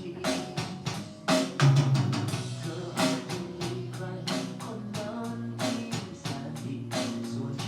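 Live drum kit and ukulele playing a song together, the drums keeping a steady beat of about two hits a second over sustained bass notes.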